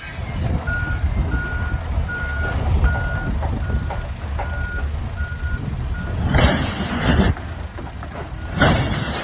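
Reversing alarm on a heavy vehicle beeping at a single pitch, a little faster than once a second, over a steady engine rumble. The beeping stops about six seconds in, and two loud rushing bursts of noise follow near the end.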